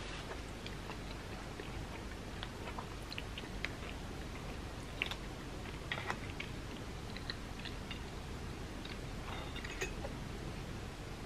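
Close-miked chewing of a bite of vegan grilled cheese sandwich, with short, wet mouth clicks scattered throughout.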